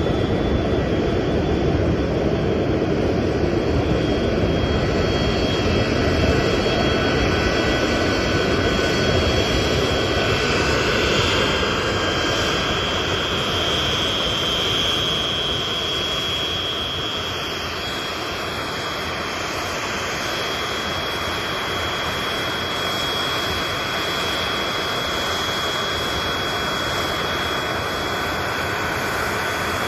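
Boeing 737-200's Pratt & Whitney JT8D turbofan engines running loud, with a high steady whine over a broad rush of jet noise that eases slightly about two-thirds of the way through.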